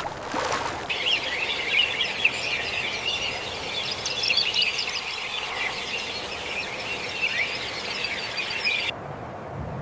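A dense chorus of many short, high chirps and squeaks from small animals. It starts abruptly about a second in and cuts off suddenly near the end.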